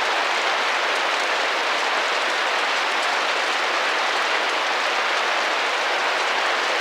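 Steady rain drumming and tapping on a window pane, an even patter with no breaks.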